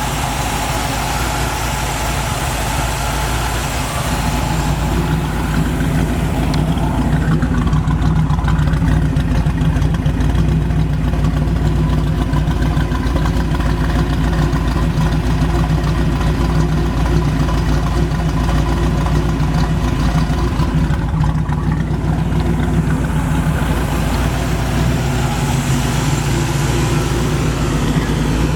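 Ford 302 V8 with a mild cam and dual exhaust idling steadily in a 1951 Ford F100, getting a little louder from about five seconds in.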